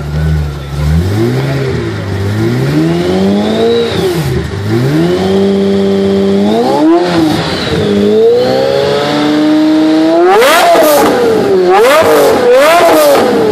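Pagani Zonda's Mercedes-AMG V12 revved while the car stands still: the revs climb and drop and hold steady at several levels. Near the end they shoot up into a quick series of high rev blips.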